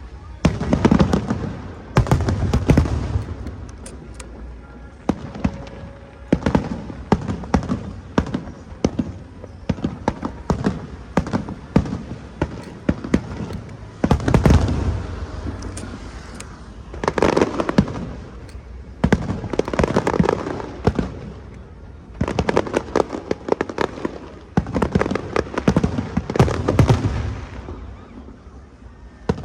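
Aerial fireworks bursting in quick succession: deep booms mixed with dense crackling, coming in waves every few seconds.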